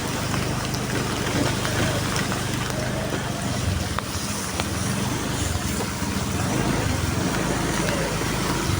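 A motor vehicle's engine running with a steady low hum under a constant hiss, likely rain and wet road, with scattered faint ticks throughout.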